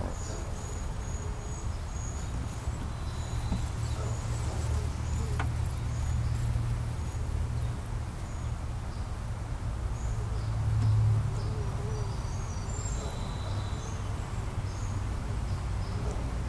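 Honeybees buzzing around an opened top bar hive: a steady hum that swells briefly about two-thirds of the way through.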